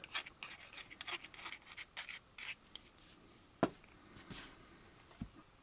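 Faint bench handling of small plastic model parts: light scratching and rubbing, then a sharp click about three and a half seconds in and a small knock near the end.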